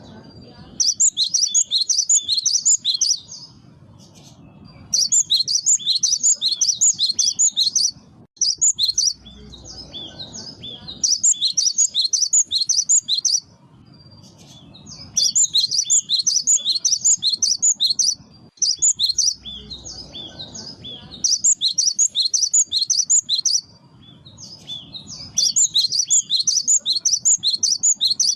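Cinereous tit (gelatik batu) singing: bursts of rapid, high chirps lasting about one to three seconds, repeated over and over with short pauses between, over a faint low background rumble.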